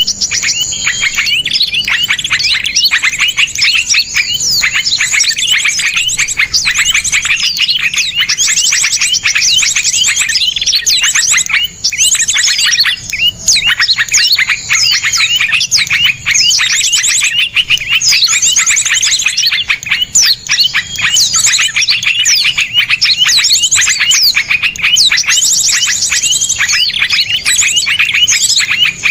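Songs of several small songbirds layered together in a dense, continuous chorus of fast, harsh trills and rapid-fire high chips, a songbird-training (masteran) recording.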